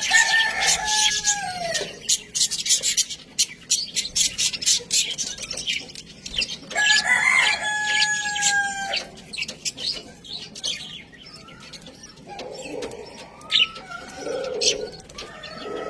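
Budgerigars chattering with rapid high chirps and clicks throughout. A rooster crows twice in the background, each crow a held call of about two seconds, one at the start and one about seven seconds in.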